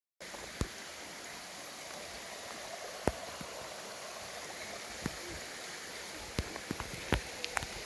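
Steady rush of flowing water, starting abruptly a moment in, with scattered sharp clicks and taps over it.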